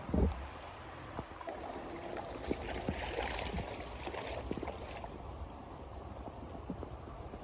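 Water running and splashing, with a dull thump just after the start and scattered knocks; a burst of splashing about halfway through.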